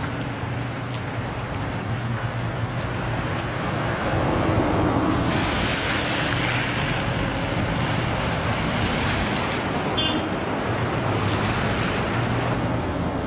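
A motor vehicle's engine running steadily under a loud rush of wind and road noise, which swells for a few seconds in the middle.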